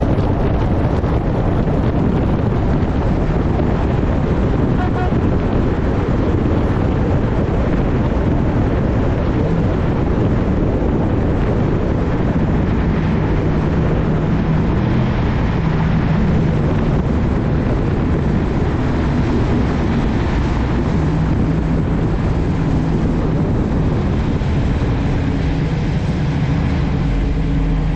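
Steady car engine and road noise, with wind buffeting the microphone; a low engine hum comes through more clearly about halfway in.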